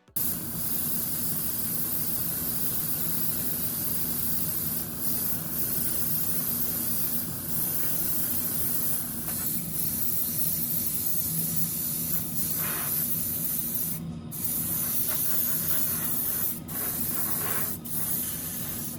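Steady hiss of matt clear coat being sprayed onto scale-model interior parts, with a low hum underneath and a very brief break in the spray about 14 seconds in.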